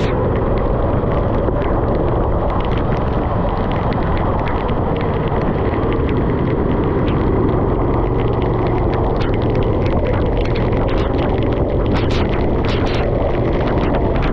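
Go-kart engine running on track, its pitch rising and falling with speed, under heavy wind and road noise.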